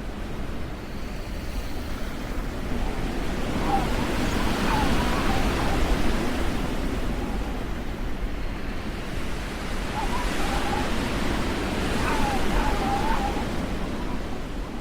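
Wind noise on the microphone over a steady low rumble of city street traffic, swelling louder in the middle. Faint wavering tones come through twice.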